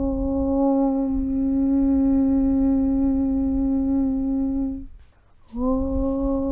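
A voice chanting Om in a long, steady low tone, the sound closing into a hum about a second in. It breaks off for a short gap near the end, and a new Om starts with a slight upward slide in pitch.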